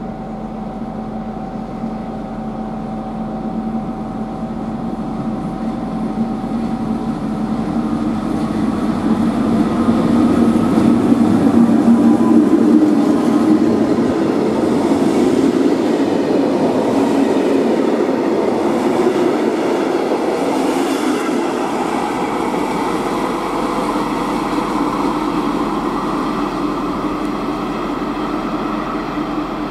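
MÁV class V43 'Szili' electric locomotive pulling a fast train out of the station. It starts as a steady hum, then the rumble and wheel clatter of the locomotive and coaches build to a peak about ten to thirteen seconds in and carry on loud as the train passes.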